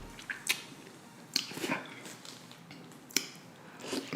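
A person eating lobster: scattered sharp cracks and clicks of shell and soft chewing, about six separate snaps over a few seconds.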